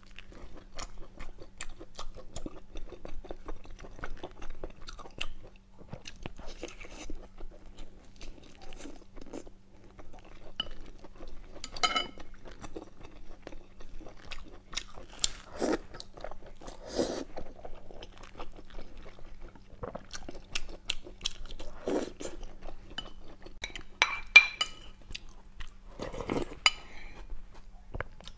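Close-miked chewing of braised meat: a steady run of wet mouth clicks and smacks, with several louder clicks along the way.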